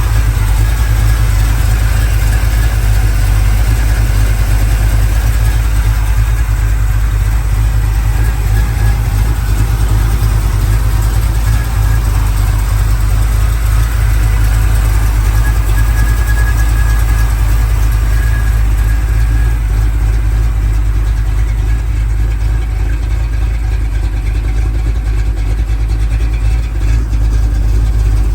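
1975 Chevrolet C10 pickup's engine running steadily, a loud, even low rumble with no breaks.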